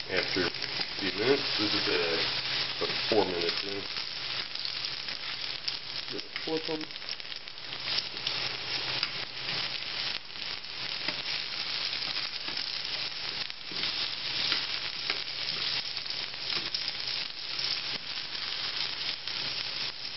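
Peeled potato chunks frying in fat in a non-stick pan: a steady sizzle full of fine crackle, with metal tongs scraping and clicking against the pan as the pieces are turned to brown.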